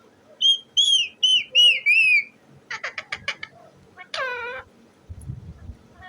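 Pet parrot whistling five short, loud chirps, then a quick run of clicking notes, then one longer call falling in pitch. A low rumble comes in near the end.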